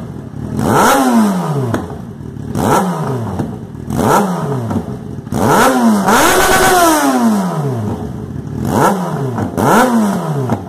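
Yamaha XJ6 600 cc inline-four motorcycle engine revved hard with about seven quick throttle blips, each climbing sharply and falling back toward idle, with one longer, higher rev around the middle.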